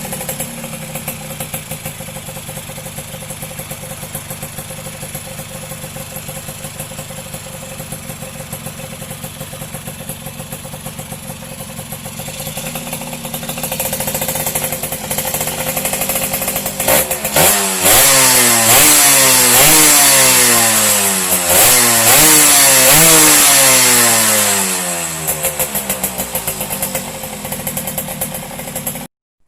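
Two-stroke single-cylinder motorcycle engine, a Yamaha F1ZR engine fitted to a Yamaha V80, idling and then revved in a series of quick blips, its pitch sweeping up and down repeatedly for several seconds before it drops back to idle. The sound cuts off suddenly near the end.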